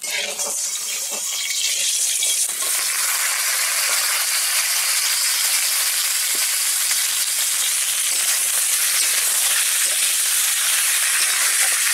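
Chopped bottle gourd sizzling in hot mustard oil as it is sautéed. The sizzle starts suddenly, grows louder about two and a half seconds in, then holds steady.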